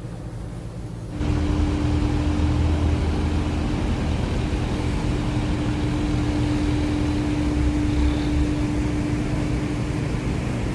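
Cargo boat's engine running steadily at constant speed: a low rumble with a steady hum over it. It comes in abruptly about a second in and cuts off abruptly at the end.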